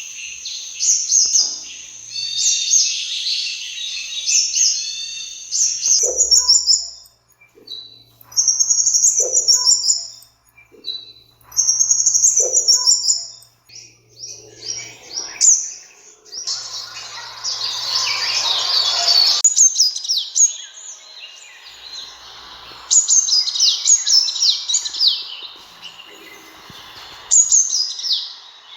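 Sunbird calling: quick series of high, thin chirps and twittering trills in bursts with short gaps. A few seconds past the middle a rough hiss lies under the calls for about three seconds.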